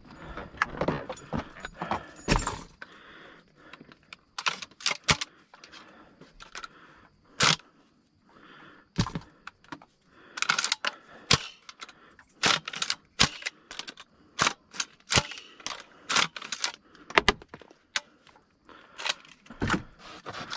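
Footsteps crunching and snapping through dry brush, a run of sharp cracks at a walking pace with short pauses between.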